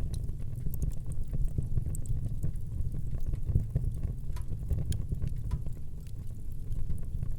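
Wood fire burning in a fireplace: a steady low rumble of flames with frequent small, sharp crackles and pops scattered through it.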